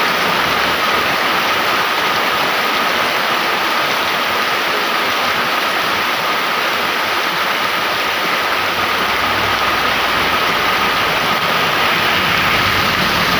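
Heavy rain pouring down steadily in a loud, even hiss.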